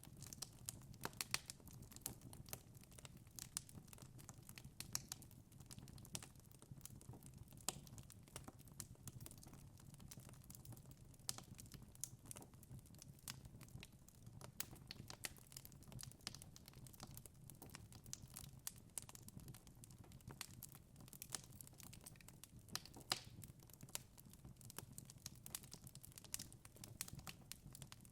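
Wood fire in a fireplace crackling: frequent irregular sharp snaps and pops over a faint, steady low hum.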